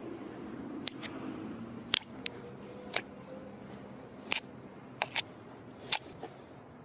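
Slime being pressed and poked by hand, giving about ten sharp clicking pops at irregular intervals over a soft background; the loudest pop comes near the end.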